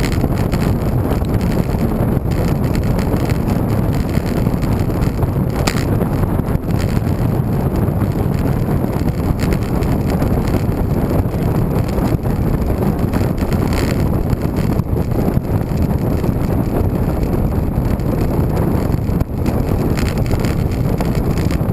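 Steady wind rushing over the microphone of a camera carried on a moving bicycle, with the low rumble of the ride underneath.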